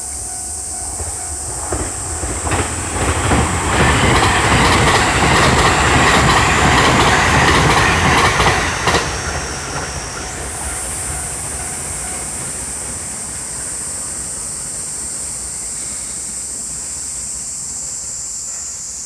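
A train passing over a level crossing, its wheels clattering in a steady rhythm over the rail joints. The clatter builds from about two seconds in, stays loud for several seconds and cuts off about nine seconds in as the last car clears.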